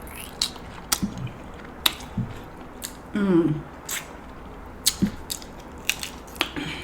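Steamed king crab legs being cracked and eaten: a series of sharp snaps and clicks, about one a second, with a short falling voiced 'mm' sound a little after three seconds in.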